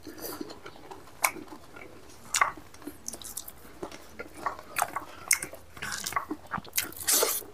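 Close-up mouth sounds of a man eating rice and meat with his fingers: chewing with irregular wet clicks and lip smacks, and a louder smack near the end.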